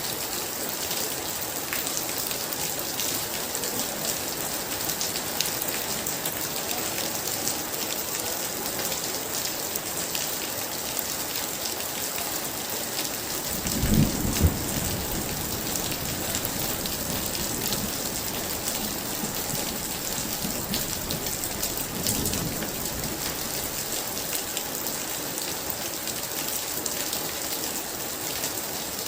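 Heavy rain pouring steadily on a surface, with a clap of thunder rumbling about halfway through and a fainter rumble of thunder a few seconds later.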